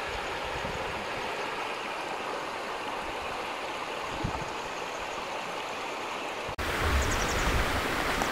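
Shallow river rushing over rocks and pebbles in a steady flow. About two-thirds of the way through, the sound cuts abruptly to a louder, rougher rush with an uneven low rumble.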